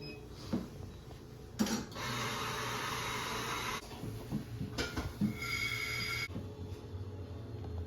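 Coffee-shop clatter: light knocks and clinks of cups and dishes, with a steady hiss for about two seconds and a second, shorter hiss about five seconds in that carries a thin high squeal.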